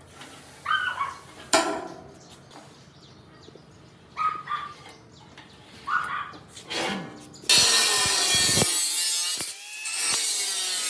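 A dog gives a few short whimpering yelps, then about seven and a half seconds in a power tool starts a loud, rasping cut that drops in pitch as it bites.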